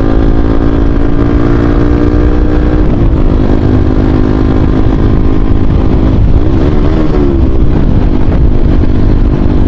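Motorcycle with an SC Project aftermarket exhaust running loud while being ridden, its exhaust note mostly steady with a deep rumble underneath. The pitch dips briefly about three seconds in and rises and falls again around seven seconds in.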